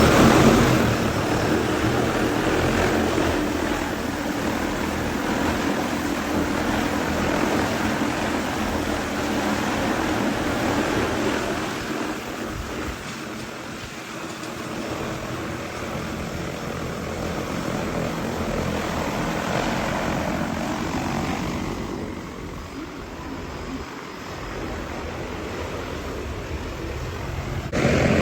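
Propellers of a single-seat manned drone running in flight, a steady broad whirr that grows louder and fainter as it moves, with a sudden jump in level near the end.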